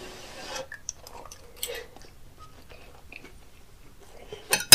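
A person chewing a hot mouthful of cheesy pizza pot pie, with a short breathy hiss at the start and faint mouth sounds. Near the end, a sharp clatter of the fork and knife on the plate.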